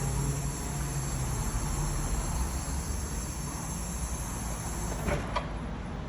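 Crown walkie reach truck's electric motor running with a steady high whine over a low hum. About five seconds in the whine drops away, with two short clicks.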